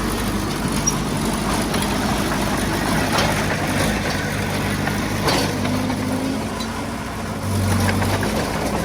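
Heavy-equipment diesel engine running steadily, with two sharp knocks about three and five seconds in.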